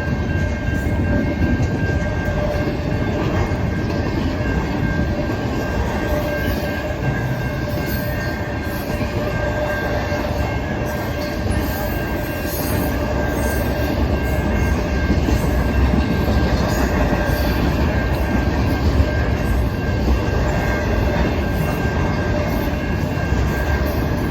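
BNSF intermodal freight train rolling past at close range: a continuous heavy rumble of wheels on rail, with a thin, steady high squeal from the wheels.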